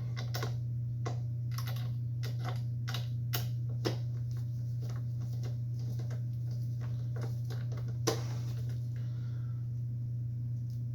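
Quick irregular metallic clicks and taps of a tool working a fastener on a chop saw as it is tightened. The clicks are dense for the first few seconds and then come only now and then, over a steady low hum.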